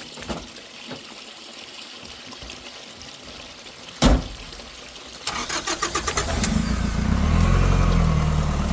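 A single loud thump, then about a second later a car engine is cranked with a rapid stutter, catches and settles into steady running.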